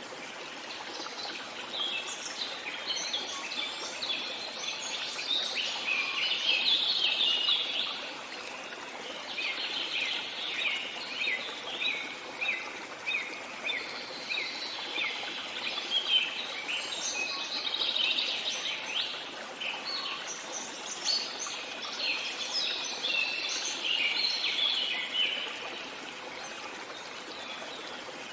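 Songbirds chirping and singing in rapid, busy phrases over a steady rush of running water; the birdsong fades out near the end.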